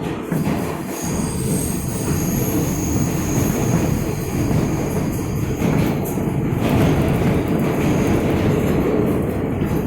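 R160A subway car of the L train running along the track, heard from inside the car: a loud, steady rumble of wheels and running gear. A thin, high-pitched wheel squeal rides over it from about a second in until near the end.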